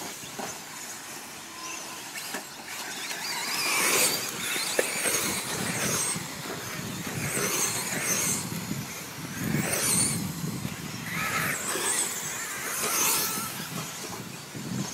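1/10-scale electric radio-controlled off-road trucks racing past, their motors giving a high whine that swells and fades each time cars pass close, several times over.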